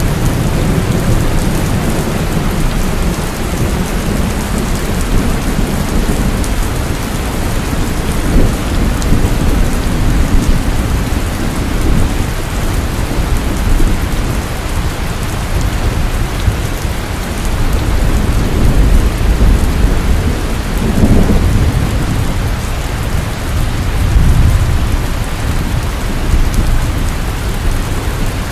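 Heavy rain pouring steadily, with low rolling thunder that swells and fades several times underneath.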